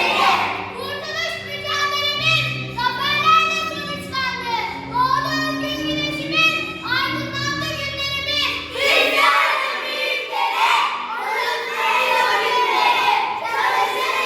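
Children singing over a music backing track. About nine seconds in, the singing and music give way to a crowd of children shouting and cheering.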